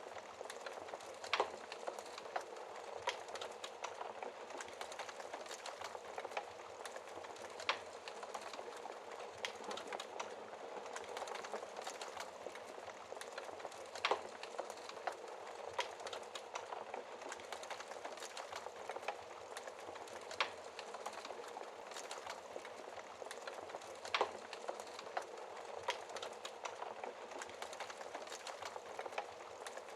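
Wood fire crackling in a fireplace: a steady hiss of flames with many small crackles and a few louder sharp pops several seconds apart.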